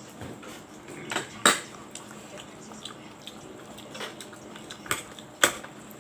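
Dishes and cutlery clinking and knocking during a meal: a few sharp separate clicks, the loudest about a second and a half in and again near the end.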